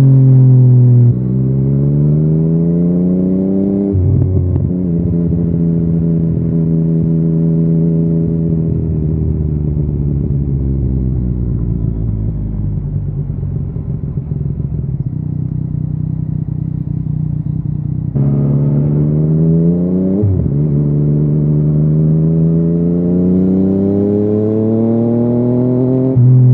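Yamaha XSR900's three-cylinder CP3 engine through an Akrapovič carbon full exhaust, heard from the bike while riding. The revs climb and drop back with an upshift about four seconds in, hold steady and ease off for a long stretch, then climb again from about two-thirds of the way through with another upshift shortly after.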